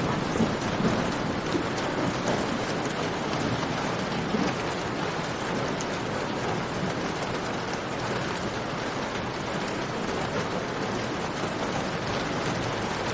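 Steady rain falling in a cave, with a low rumble fading out over the first few seconds and small sharp crackles of a campfire scattered through.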